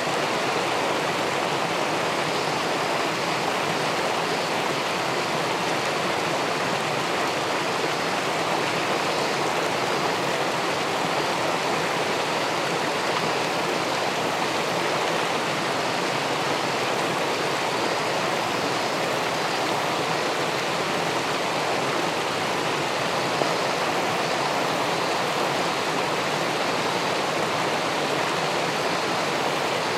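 Steady rush of river water pouring over a weir into the pool below it, an even, unbroken water noise.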